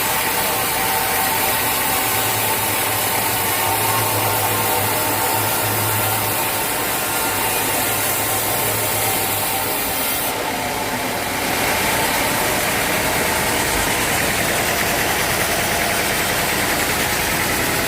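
Band sawmill's engine running steadily, with a steady mid-pitched whine over a low hum. The sound changes in character about ten seconds in.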